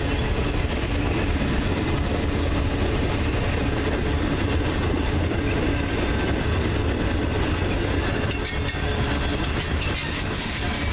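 Freight train rolling past on the rails, a steady rumble of cars and wheels with sharp clicks near the end.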